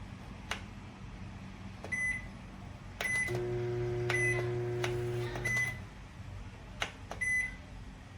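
COMFEE' CM-M093ARD microwave being operated: clicks of buttons or the door latch and several short high beeps from the control panel, then the oven running with a steady hum for about two and a half seconds before it stops.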